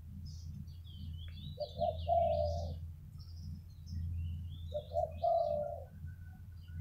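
Spotted dove cooing, two phrases about three seconds apart, each a short note run into a longer rolling coo. Small birds chirp faintly behind it.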